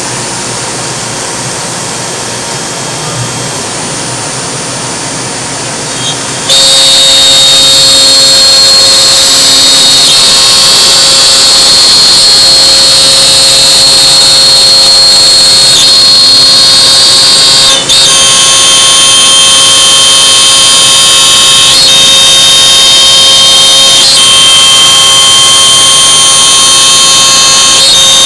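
CNC router running: a steady machine hum for about the first six seconds, then a sudden, much louder cutting sound with a steady high-pitched whine as the spindle works the material, dropping out for a moment about two-thirds of the way through.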